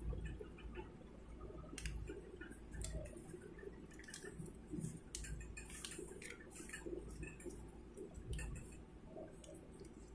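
A sheet of paper being handled and folded into a paper boat: irregular crinkles and crisp crackles as creases are pressed, with soft low thumps of hands on the paper.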